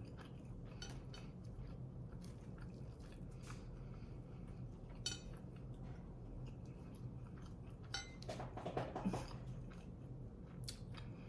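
Close-miked chewing and wet mouth sounds of someone eating tandoori chicken, with scattered small clicks and crunches and a busier patch of chewing near the end. A faint steady low hum sits underneath.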